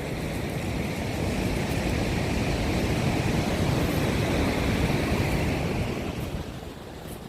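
Heavy surf: a wave breaking and rushing up the shore, building for a few seconds and then dying away near the end.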